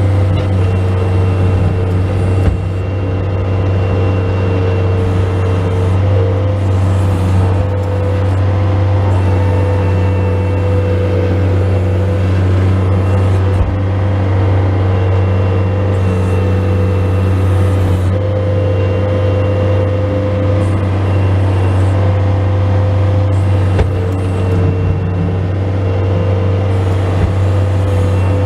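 Bobcat S185 skid steer loader's diesel engine running steadily under load while plowing snow, a loud constant drone with a few brief knocks.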